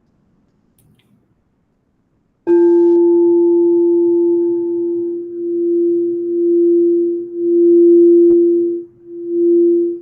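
A singing bowl is struck a couple of seconds in and rings on with one strong, steady tone plus overtones. Its loudness then swells and dips in slow waves.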